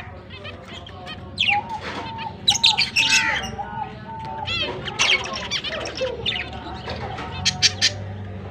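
Lovebirds chattering with repeated sharp, shrill squawks and chirps, several birds calling over one another, over a steady low hum.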